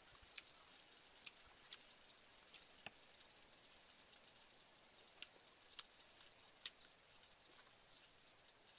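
Mouth sounds of eating chicken off the bone: about eight short, sharp wet clicks and smacks spaced irregularly over otherwise near-silent background.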